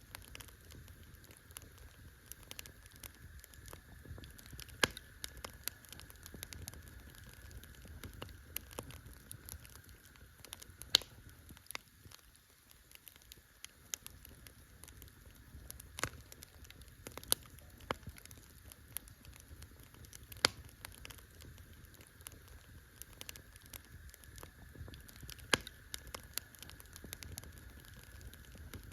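Wood campfire crackling: a steady run of small irregular pops, with a louder sharp snap every few seconds, over a low rumble.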